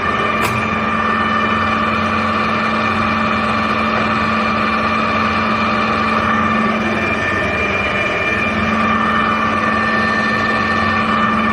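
Clausing Colchester geared head engine lathe running with its spindle turning under its 7-1/2 hp three-phase motor: a steady gear whine over the motor's hum.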